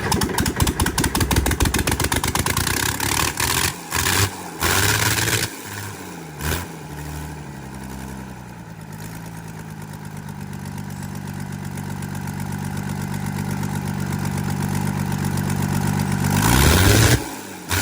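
Rebuilt bulldozer diesel engine running: a fast, rough clatter of firing pulses for the first few seconds, then a steady idle that slowly grows louder, with a brief loud rise in speed near the end that drops away sharply.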